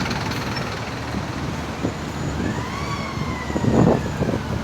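An emergency vehicle's siren wailing: one long tone rises about halfway in and then slowly falls, over steady road-traffic noise. A short loud rush of noise comes near the end.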